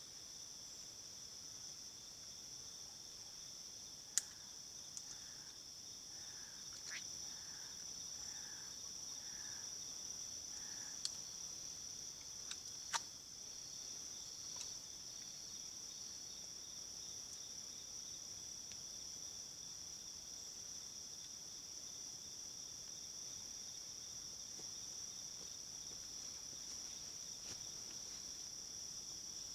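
Steady high-pitched insect drone, two constant tones. About four seconds in comes a short run of six soft, evenly spaced calls, and a few sharp clicks sound now and then.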